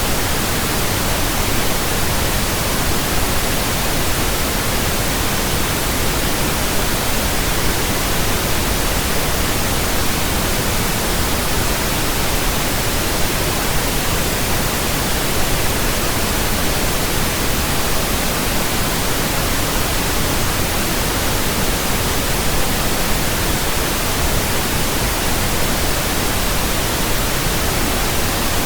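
Steady pink noise from a pink noise generator, an even, unchanging hiss that covers the whole range from deep lows to highs, played as a burn-in signal for speakers and headphones.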